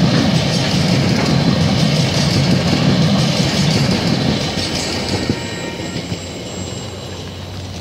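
Empty flat wagons of a freight train rolling past at speed, wheels clattering on the rails. The sound dies away about five seconds in as the last wagon clears, leaving a car's tyres hissing on the wet road.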